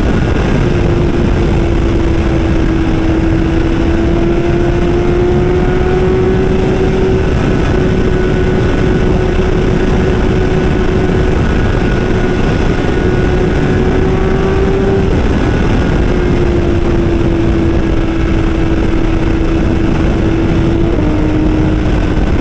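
Motorcycle engine holding a steady drone at cruising speed, under a heavy, constant rush of wind on the microphone. The engine note dips slightly near the end.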